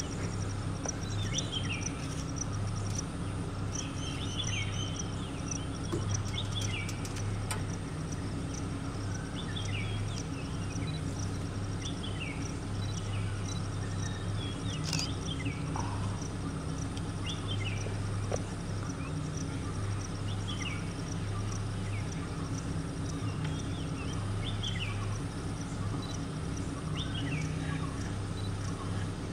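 Forest ambience: a bird repeats a short falling call every second or two over a steady high insect trill, with a low steady hum underneath.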